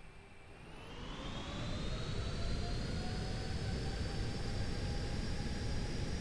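Boeing 777 jet engines whining, the pitch and loudness rising over the first two seconds and then holding steady over a heavy rumble.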